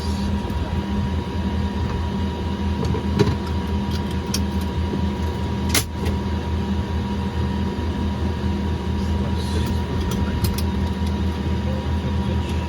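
Steady drone of a Cessna 208B Grand Caravan EX's single Pratt & Whitney PT6A-140 turboprop engine and propeller, heard from inside the cabin as a constant low hum with a steady higher tone. A few sharp clicks, the loudest about six seconds in.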